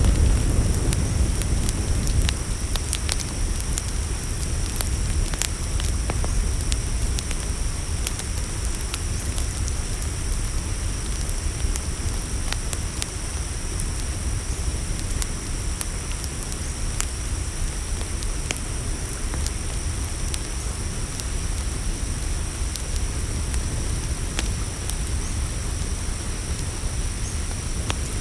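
Campfire crackling, with scattered sharp pops over a low, steady rumble, while crickets chirr in a steady high drone.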